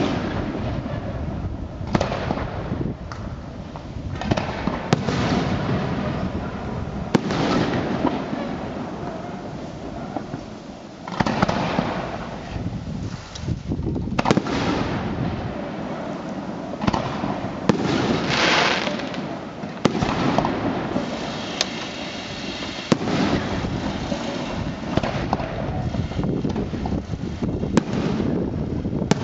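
Aerial firework shells bursting one after another, sharp bangs every second or two, each trailing off in an echo, with crackle between them. A spell of loud hissing crackle comes about two-thirds of the way through.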